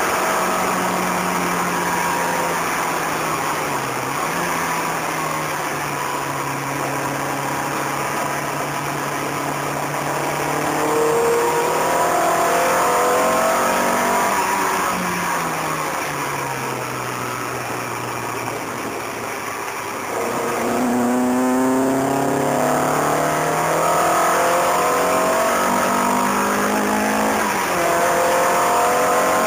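Car engine at speed on a race circuit, heard from inside the cabin, its revs climbing and dipping. The revs fall away for a few seconds, then climb hard again about two-thirds of the way in, with a short dip near the end, all over wind and road noise.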